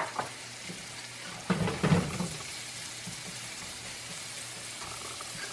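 Diced onions and bell pepper sizzling gently in butter in a frying pan. There is a sharp click at the start and a short clatter about a second and a half in as a fork stirs the vegetables against the pan.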